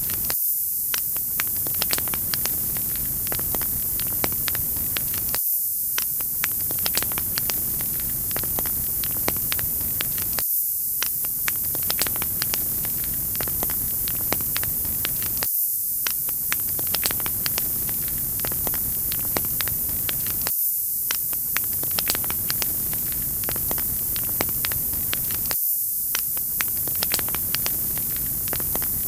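Wood fire crackling in a fireplace: a steady hiss with frequent sharp pops and snaps. The sound repeats about every five seconds.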